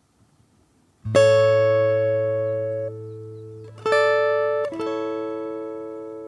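Acoustic guitar: after a quiet first second, a chord is strummed and left to ring, then two more chords follow a little before and after four seconds in, each fading slowly over a held low bass note.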